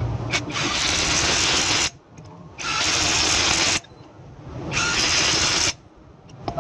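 A power tool running in three bursts of about a second each, with short pauses between them.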